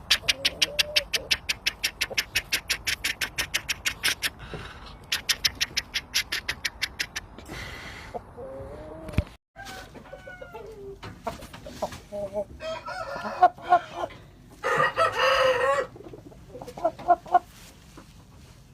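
Game roosters (aseel and shamo) clucking, with a rooster crowing briefly about two thirds of the way in. For the first several seconds, a fast, even train of sharp clicks runs under the calls.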